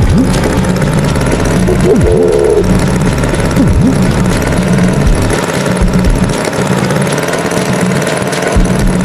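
Animated farm tractor's engine sound effect idling steadily, with a few short sliding sounds over it near the start and about two and four seconds in.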